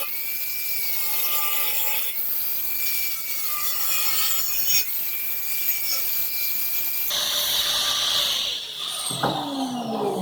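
Small angle grinder cutting into iron, a loud high abrasive hiss over a whine that sags and recovers as the disc is pushed into the cut. Near the end the grinder is switched off and its whine falls away as it winds down.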